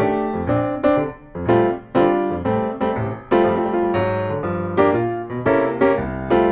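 Background piano music: a solo piano playing a melody over chords, notes struck about two or three times a second, each dying away.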